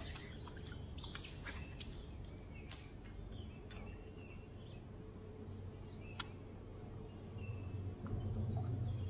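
Songbirds chirping over a steady low hum, with a few sharp clicks scattered through; the hum grows louder near the end.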